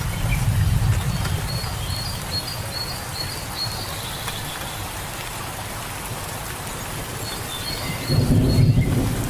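Steady rain falling in a forest, with birds chirping in short, quick high notes, once through the first few seconds and again near the end. A low rumble underlies the rain at the start, fades, and swells back about eight seconds in.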